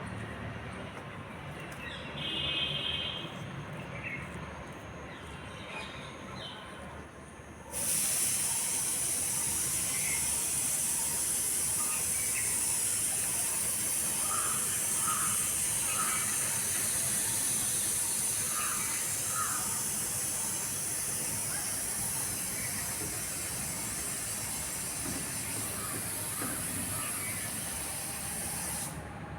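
Birds chirping; about eight seconds in, a loud, steady high hiss starts abruptly and covers them until it cuts off just before the end.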